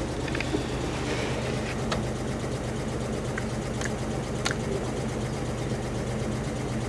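Car engine running steadily, heard from inside the cabin as a low even hum, with a few faint clicks.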